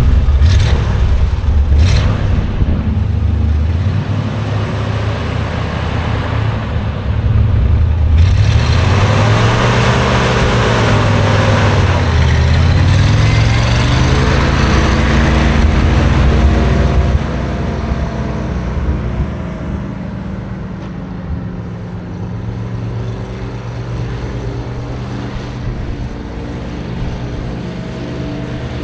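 1969 Ford 600 truck engine running, revved up and down several times, then dropping back to a steady idle about two-thirds of the way through.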